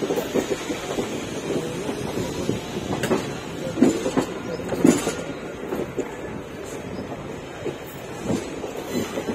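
Passenger train running, heard from inside the coach by its window: a steady rumble with irregular clacks of the wheels over rail joints, the loudest about four and five seconds in.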